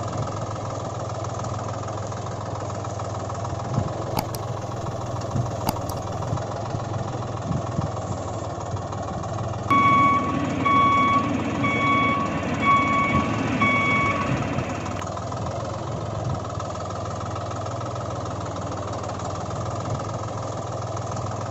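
A vehicle engine running steadily. About halfway through, a reversing alarm beeps six times in an even rhythm.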